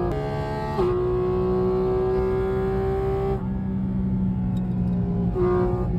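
Sports car engine at high revs heard from inside the cabin under hard acceleration. The note drops sharply at an upshift about a second in and then climbs slowly. A few seconds in the driver lifts off and it falls to a lower, steadier drone.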